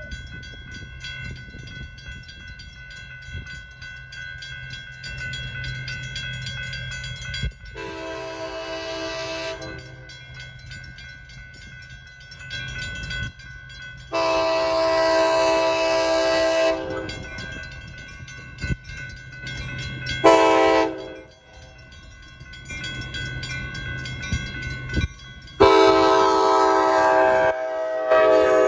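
Grade-crossing bells ringing. The approaching commuter train then sounds its horn in the standard crossing pattern: two long blasts, one short, and a final long one, over the low rumble of the train.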